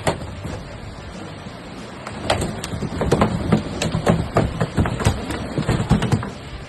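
A freshly caught tuna thrashing on the boat's deck: irregular knocks and thumps, a few at first, then a rapid flurry from about two seconds in that eases off near the end.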